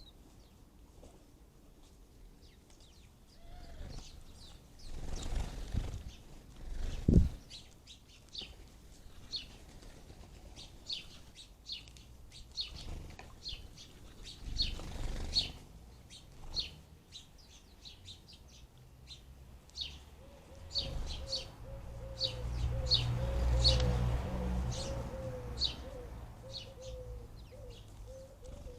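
House sparrows chirping repeatedly, short high chirps scattered through and sometimes in quick runs. Several bursts of low rumbling noise come and go, and in the last third a low wavering tone runs underneath.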